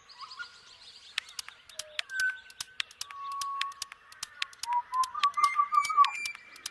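Several birds calling, with whistled notes, trills and a quick run of repeated notes near the end, mixed with many sharp clicks.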